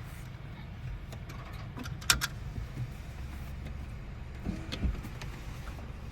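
Automatic tunnel car wash: a low steady rumble with a few sharp clicks and knocks, the loudest a double knock about two seconds in.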